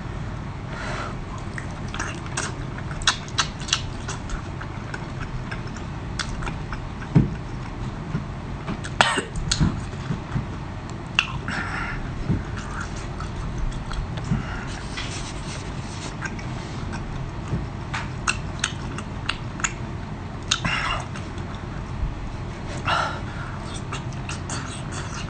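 Close-miked eating sounds: wet chewing, lip smacks and slurps of spicy sea snail meat, as scattered short clicks over a steady low background. A few short, louder bursts come about a third of the way in and near the end.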